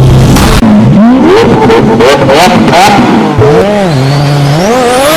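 Car engine revving up and down several times, very loud, its pitch climbing and falling with each blip. A thin rising whistle comes in near the end.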